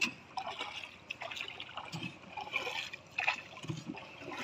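Small wooden rowboat's oar dipping and pulling through river water, with water trickling and splashing irregularly off the blade and along the hull, and a few soft low knocks.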